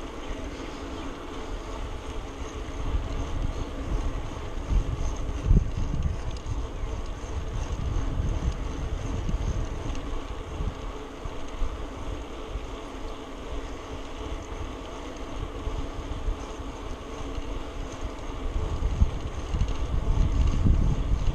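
Wind buffeting the microphone of a camera on a moving bicycle: uneven low gusts that grow stronger near the end, over a steady faint hum.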